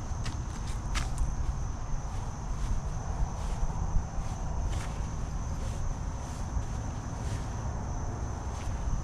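Insects, likely crickets, trilling steadily in a high thin tone with faint pulses about twice a second, over a low rumble of wind on the microphone, with a few sharp clicks and rustles of gear being handled.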